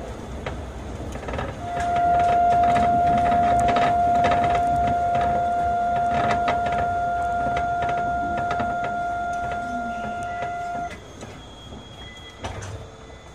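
Astram Line 6000 series rubber-tyred automated guideway train running. A steady high whine holds for about nine seconds over a rumble with scattered clicks, then stops, and the sound turns quieter.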